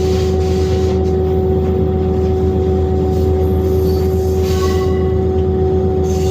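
Very long train rolling past at close range: a loud, steady low rumble with a steady hum held throughout.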